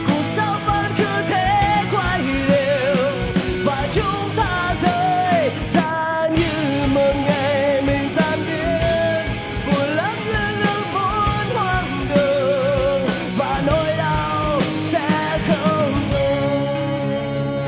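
Rock band playing live, with a lead melody full of pitch bends and wide vibrato over bass and drums. Near the end the band drops back to a single held note as a quieter guitar passage begins.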